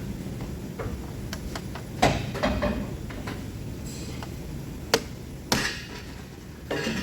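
Scattered clinks and knocks of hand tools on metal during work on a car engine, the sharpest about two seconds in and twice around five seconds in, over a low background rumble.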